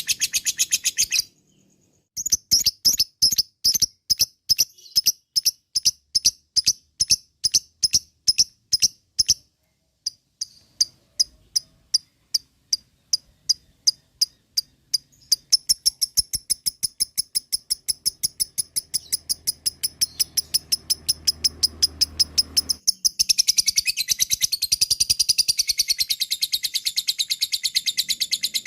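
Lovebird giving its long 'ngekek' chatter: a rapid series of sharp, high chirps, several a second. It breaks off twice, then quickens and runs together into a dense chatter in the last few seconds.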